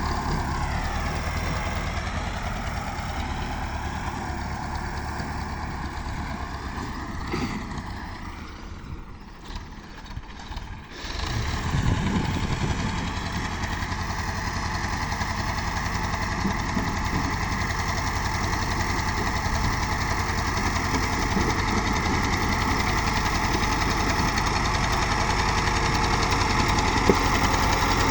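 Tractor engine running steadily. It drops quieter for a few seconds about a third of the way in, then comes back louder and stays steady.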